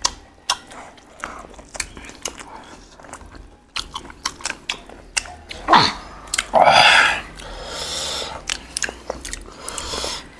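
Close-miked chewing and biting with many sharp mouth clicks, from people eating boiled pork with raw herbs. About two-thirds through comes a short, loud rasping hiss.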